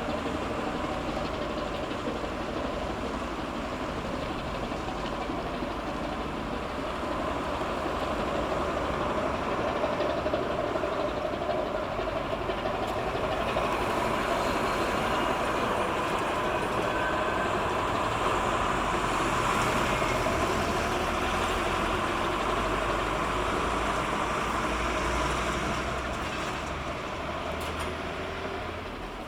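Steady engine rumble of a cargo ship passing close by through a narrow strait. It swells slowly to a peak past the middle and eases off near the end.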